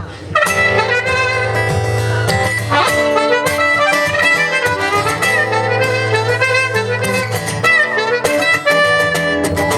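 A live band plays an instrumental break: a melodic wind-instrument lead over guitar and a steady bass line.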